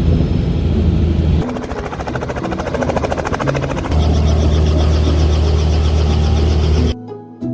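Helicopter rotor and engine noise: a loud, steady low drone with a fast pulsing, broken by a couple of abrupt cuts. Near the end it cuts off and soft plucked harp music starts.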